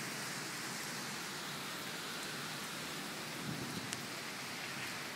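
Heavy rain pouring steadily. There is one small, sharp tick about four seconds in.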